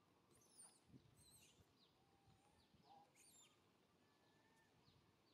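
Faint outdoor ambience with scattered short, high bird chirps and whistles, a few of them sweeping down in pitch.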